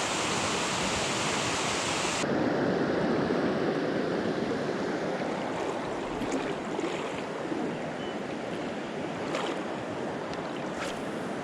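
Flowing river water, a steady rushing wash that turns duller about two seconds in, with a few faint clicks near the end.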